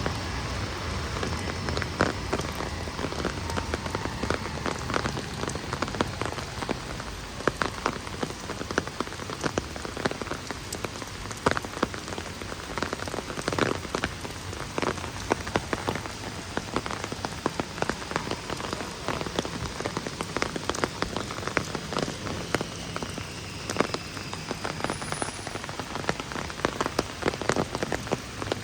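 Heavy rain falling: a steady hiss dotted with many sharp, close drop hits.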